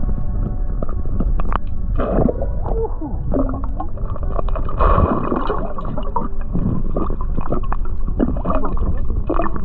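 Water gurgling and splashing in irregular bursts, over a steady low rumble.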